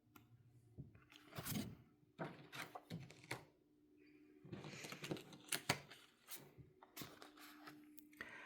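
Faint handling noises: a series of light clicks, taps and rustles, irregularly spaced, over a low steady hum.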